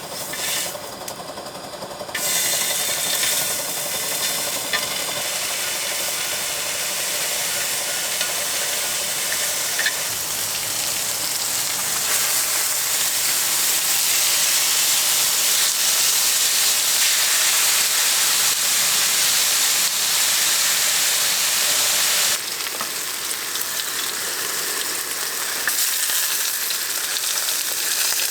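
Food sizzling and frying in a hot pan. It starts suddenly about two seconds in, grows louder midway, and dips briefly near the end.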